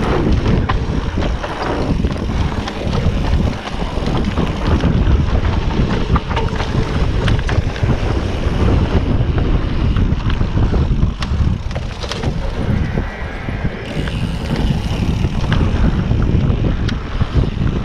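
Wind buffeting the microphone of a camera carried on a mountain bike riding down a dirt trail, over a steady low rumble with scattered sharp clicks and rattles from the bike on rough ground.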